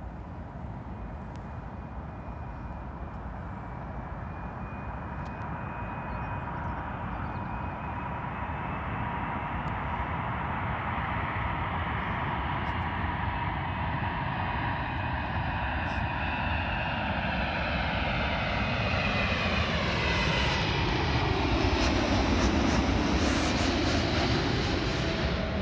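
Airbus A380's four turbofan engines on landing approach, growing steadily louder as the airliner comes in, with a steady whine over the engine noise. Near the end, as it passes close, the sound peaks and a sweeping tone falls in pitch.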